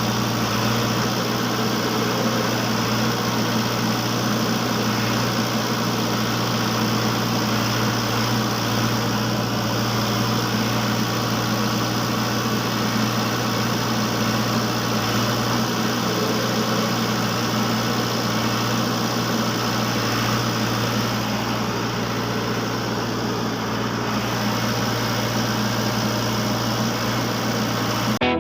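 A small motor or engine running steadily, a constant low hum with a noisy rasp over it and no change in speed. It cuts off abruptly at the very end.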